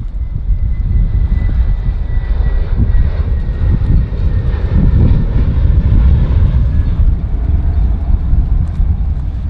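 Jet airliner's engines passing close by: a heavy rumble that swells to its loudest about halfway through, with a high whine slowly dropping in pitch. Wind buffets the microphone throughout.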